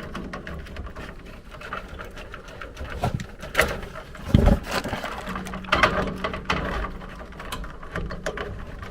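Hands working on a gas furnace control board's wiring: scattered clicks, knocks and rustling, with one dull thump about halfway through.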